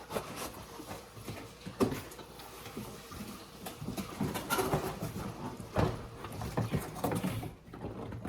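Cardboard packaging and plastic toy parts being handled, rustling and scraping, with irregular knocks; the sharpest knock comes about two seconds in.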